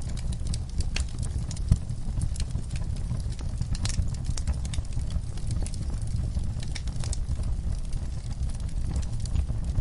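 Wood fire burning in a fireplace: a steady low rumble with irregular crackles and pops of burning logs, one sharper pop just under two seconds in.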